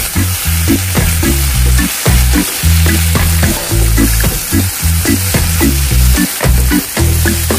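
Tofu cubes and eggplant sizzling in hot oil in a frying pan as they are stirred with a wooden spatula, with background music carrying a bass line underneath.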